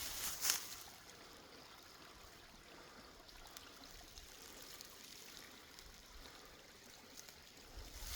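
A creek running: a faint, steady rush of water, with a footstep crunch on the brushy ground in the first half second.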